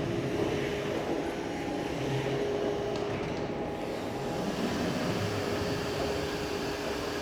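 Electric reach truck running, a steady machine hum with a constant mid-pitched whine throughout.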